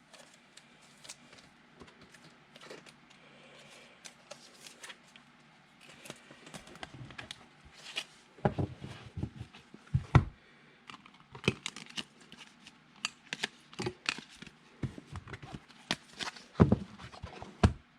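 Trading card being slid into a soft plastic sleeve and cards being handled and stacked on a table: light plastic rustling with irregular taps and clicks, busier and louder in the second half.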